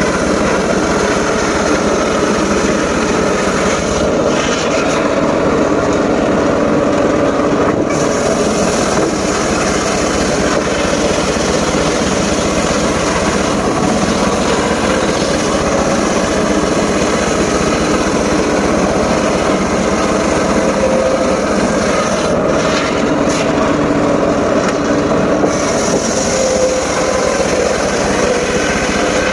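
Engine-driven mobile circular sawmill running continuously with a steady machine drone. The higher part of the sound drops away twice for a few seconds, about four seconds in and again past twenty seconds.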